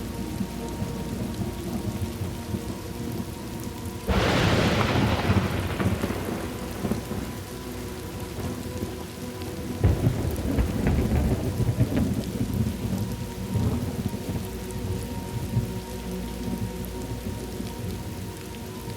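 Thunderstorm ambience: steady rain with low rolling thunder. A sharp thunderclap about four seconds in rolls away over a couple of seconds, and a second rumble swells about ten seconds in.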